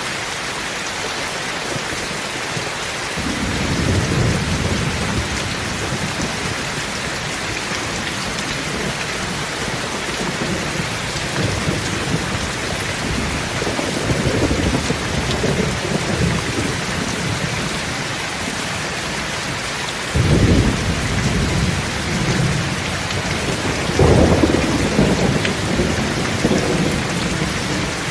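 Steady rain falling, with rolls of thunder over it: a low rumble about three seconds in, more rumbling around the middle, a sudden sharper peal about twenty seconds in and another rumble shortly after.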